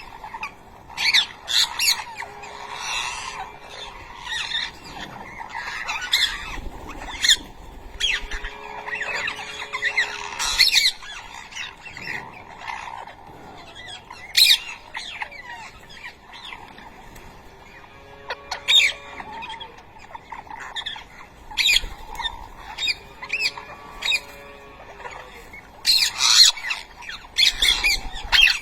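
A group of young ringneck parakeets squawking and chirping, with short harsh calls repeated in quick clusters throughout.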